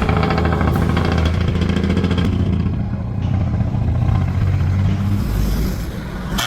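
Heavy truck engine running loudly with a deep, steady note that shifts about five seconds in.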